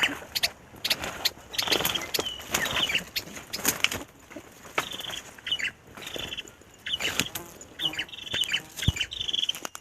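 Prinia (perenjak) giving quick series of short, sharp chirps again and again, with brief rustles and clicks between them.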